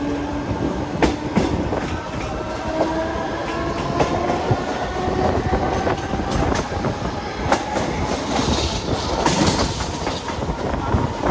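Mumbai suburban electric local train running, heard from its open doorway: a steady wheel-and-rail rumble with irregular clicks over rail joints, and a whine that slowly rises in pitch as it gathers speed.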